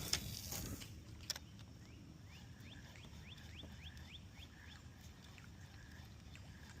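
A bird calls a quick run of about nine short rising chirps, roughly five a second, faint over a low steady background hiss. A brief rush of noise and a single click come just before it.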